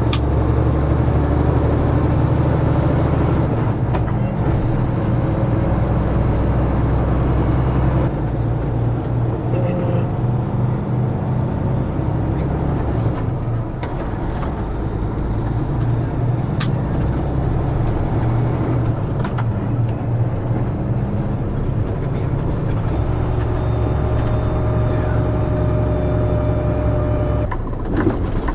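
Diesel engine of a semi truck pulling a loaded lowboy trailer, running steadily under way. Its tone changes in steps several times.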